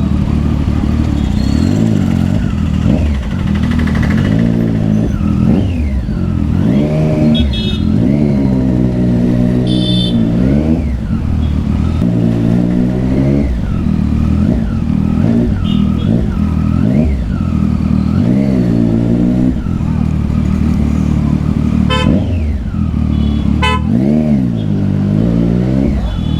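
Triumph Street Triple 675's inline-three engine through a loud Yoshimura aftermarket exhaust, being ridden, its revs rising and falling over and over as the throttle is opened and closed. Vehicle horns toot briefly a few times.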